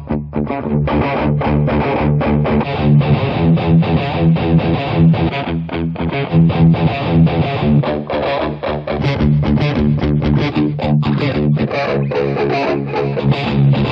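Electric guitar played through the Overloud TH-U amp simulator: a riff of fast, evenly picked low notes that runs without a break.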